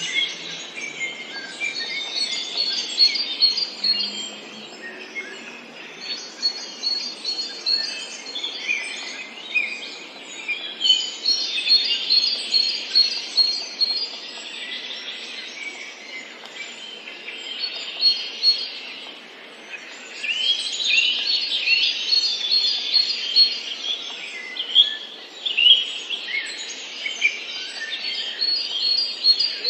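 Several songbirds chirping and singing at once, with quick runs of short high notes and overlapping calls over a faint steady hiss. The chirping thins out briefly partway through, then picks up again.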